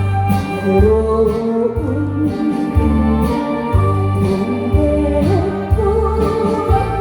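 A woman singing a Korean trot song live over a backing track, holding long notes with slides above a steady, heavy bass beat.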